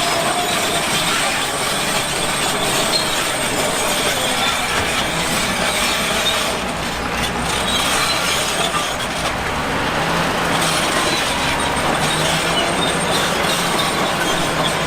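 Heavy construction machinery running steadily, with engine noise and metallic squealing and clatter.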